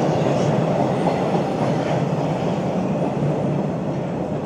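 TTC Line 2 subway train running along the platform, a steady rumble of steel wheels on the rails.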